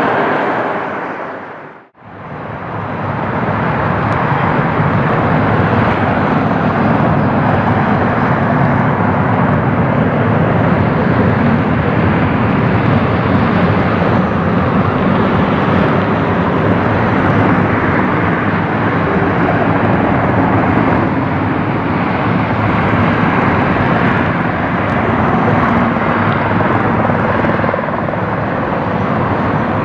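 Jet airliner engines running with a steady roar, a Spirit Airlines Airbus A320-232 with IAE V2500 turbofans. Near the start the sound briefly fades out and back in at an edit between clips.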